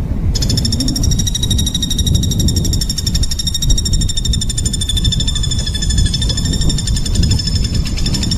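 A small songbird's very fast, harsh rapid-fire trill, a rattle of quickly repeated high notes that starts about half a second in and carries on almost without a break, over a steady low background rumble.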